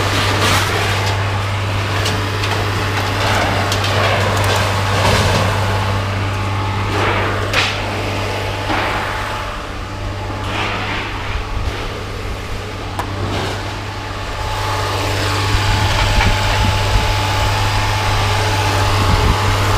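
Truck engine idling steadily under scattered clanks, knocks and scraping of scrap metal being unloaded.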